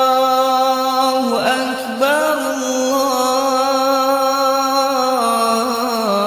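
A man's solo voice chanting an Arabic Islamic recitation, holding long notes with ornamented turns in pitch about one and a half seconds in and again near the end.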